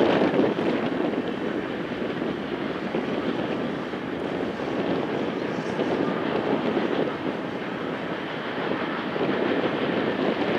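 Distant freight train of covered hopper cars rolling across a steel trestle, led by diesel locomotives: a steady rumble, mixed with wind noise on the microphone.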